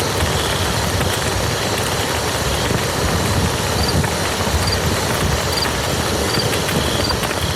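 Steady rain falling on a muddy field: a dense, even patter of drops with a low rumble underneath.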